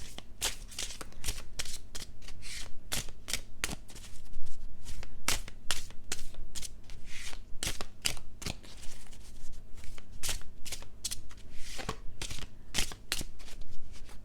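A deck of tarot cards being shuffled by hand: an irregular, rapid run of card snaps and flicks.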